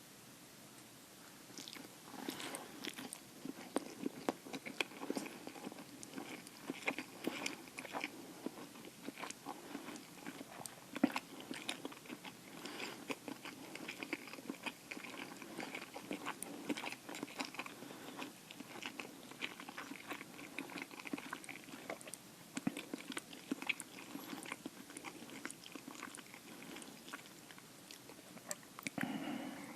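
Close-miked chewing of instant noodles: continuous wet mouth sounds with many small clicks and bites.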